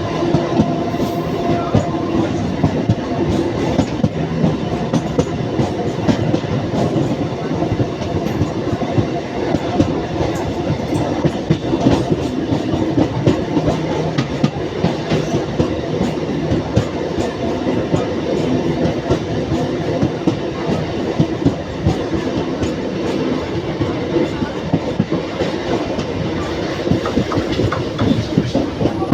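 Train running along the track: a steady, loud rattle of wheels on rail, thick with many sharp clicks.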